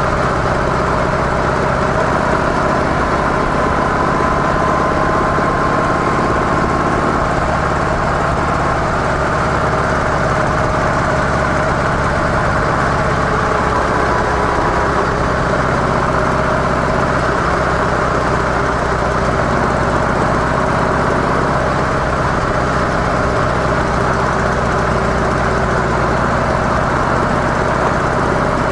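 Harley-Davidson CVO Softail's V-twin engine running steadily through its stock mufflers, with an even, unchanging note throughout.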